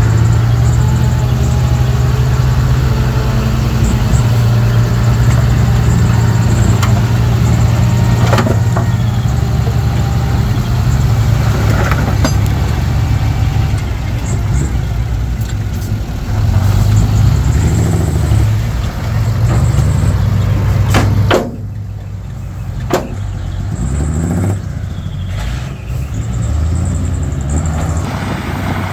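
Komatsu D31P bulldozer's diesel engine working, its pitch rising and falling with the throttle, with a few sharp knocks. About three-quarters of the way through the engine drops back and runs quieter.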